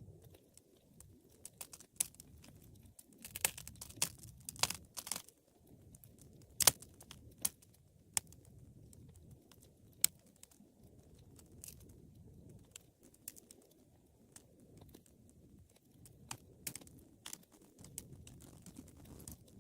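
Wood fire crackling: sharp pops and snaps scattered over a low rumble of the flames, with a dense run of crackles a few seconds in and a couple of loud single pops near the middle.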